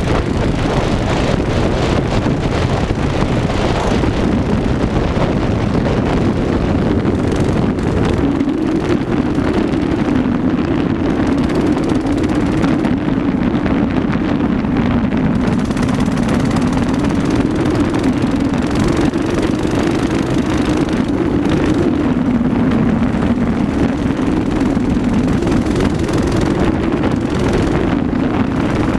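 Mini bike's small engine running steadily while riding, its note rising and falling slightly with the throttle, with wind buffeting the microphone.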